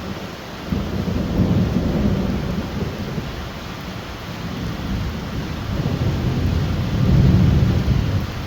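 Heavy rain falling steadily while thunder rumbles twice: a deep roll begins about a second in, and a second, louder one swells near the end before dying away.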